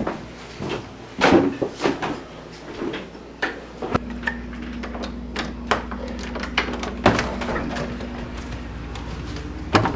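A door opening and closing amid a string of handling knocks and clicks. A steady low hum comes in about four seconds in.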